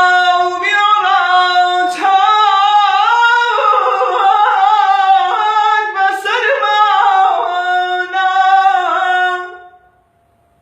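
A man singing an Islamic nasheed a cappella: one high, unaccompanied voice in long phrases with ornate, wavering runs of pitch. He breaks off near the end.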